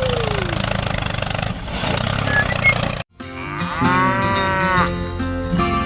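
An engine runs steadily for about three seconds. After an abrupt cut, a cow moos once in a long, arched call over background music.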